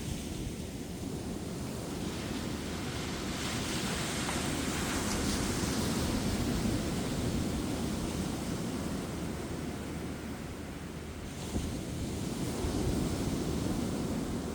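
Ocean surf breaking and washing up a beach, with wind buffeting the microphone. The surf swells and hisses in the first half, eases briefly, then builds again with a sharp crack of a breaking wave near the end.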